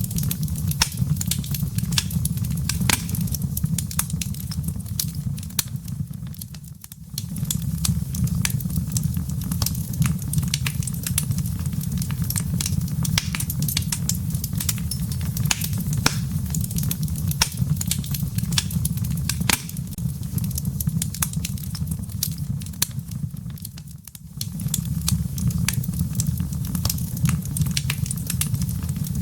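Wood fire in a fireplace crackling: a steady low rumble of the flames with a constant scatter of sharp pops and snaps from the burning wood and embers. The sound briefly dips and swells back twice.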